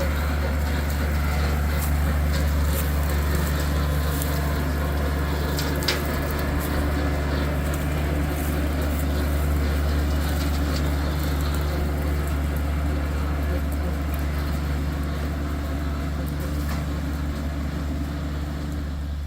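Tractor engine running steadily at a constant speed, a deep even drone with a single sharp click about six seconds in.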